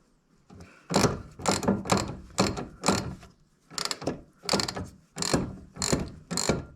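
A hand tool being worked in quick repeated strokes, each a short clicking rattle, about two a second, starting about a second in.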